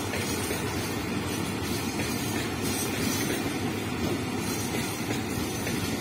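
Freight train of tank wagons rolling past close by: a steady rumble of steel wheels on the rails, with faint clicks over the top.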